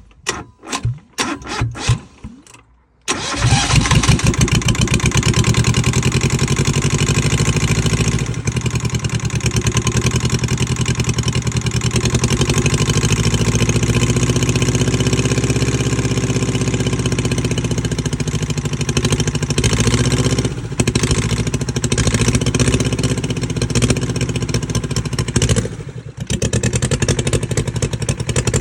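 Yanmar 2GM two-cylinder marine diesel sputtering in short bursts, then catching about three seconds in and running unevenly, its speed drifting up and down with a few brief dips. The engine runs, but poorly.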